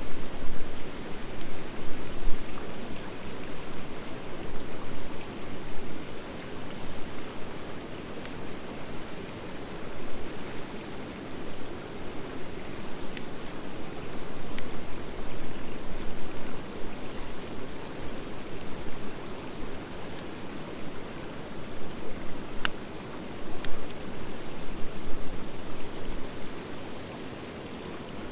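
Campfire of driftwood mixed with dry hardwood burning: a steady rushing noise with a few sharp crackling pops scattered through it.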